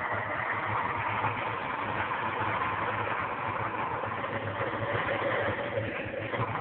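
Wallpaper steamer running, blowing steam to melt the ice in a refrigerator's freezer: a steady rumbling hiss with a low hum underneath.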